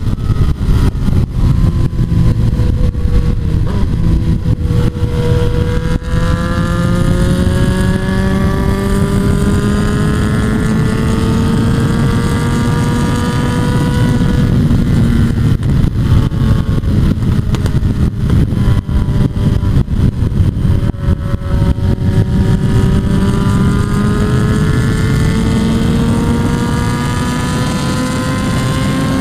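Motorcycle engine running hard at speed, its note slowly rising, falling and rising again, over a heavy rush of wind noise.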